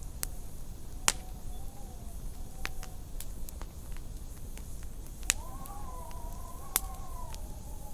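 Wood fire crackling, with sharp pops every second or so over a low rumble. Wind howls in a wavering tone that grows stronger about five seconds in.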